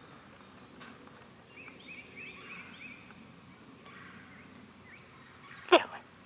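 A wild turkey gobbling once, loud and close, near the end, after a faint run of short, high, repeated chirps a couple of seconds in.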